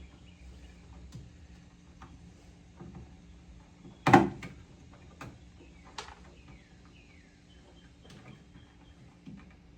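Scattered clicks and light knocks of tools and car parts being handled, with one loud knock about four seconds in and a few faint short falling squeaks a little later.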